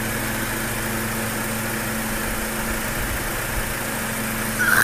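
Honda four-cylinder engine idling steadily with its radiator open, so the engine can draw in the cola being poured into it in place of coolant.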